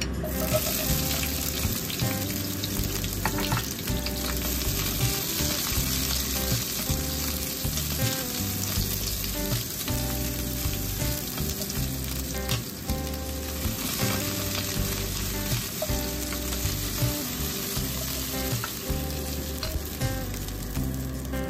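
Sliced onions sizzling and frying in hot oil in a nonstick pan, the sizzle starting at once as they go in, with chopsticks stirring them. Background music runs underneath.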